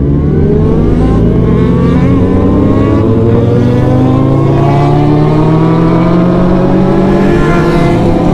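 Superbike engine pulling steadily under acceleration, its pitch climbing slowly and evenly through a long gear.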